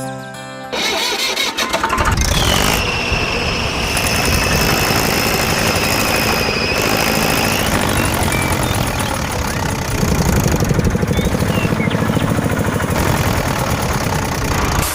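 A small motor running loudly, with a steady high whine from about 2 to 8 seconds in, then a fast rhythmic chugging from about 10 seconds.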